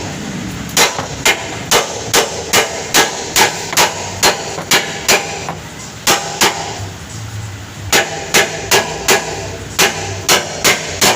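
Repeated hammer blows, about two to three a second, in two runs with a short break in the middle.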